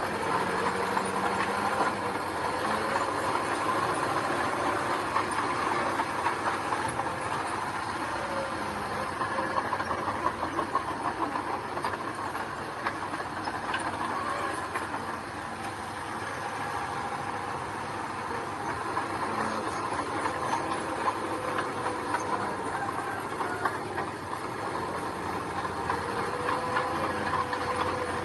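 Heavy earthmoving machinery working: a diesel engine running steadily under a continuous rattling clatter, with a steady whine throughout.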